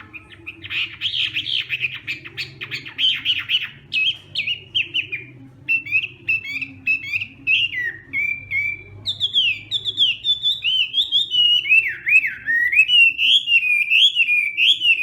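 Chinese hwamei singing a long, varied song. It starts with a dense run of fast chattering notes and moves into loud, sliding whistled phrases that rise and fall.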